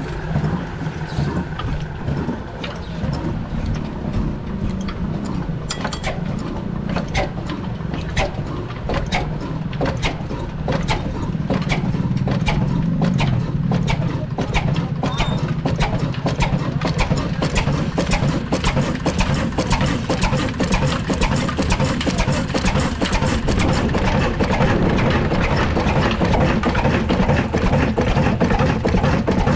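Old Ruston twin-flywheel diesel engine starting up: from about six seconds in, a regular beat of firing strokes grows quicker and louder as it runs up to speed, settling into a steady run.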